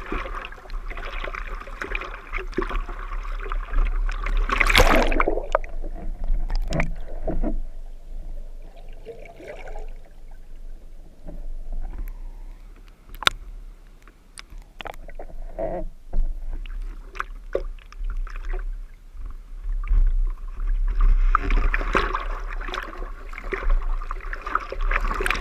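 Seawater splashing and rushing around a surfer in the surf, with a loud splash about five seconds in. Quieter stretch with scattered small splashes in the middle, then rushing water again near the end.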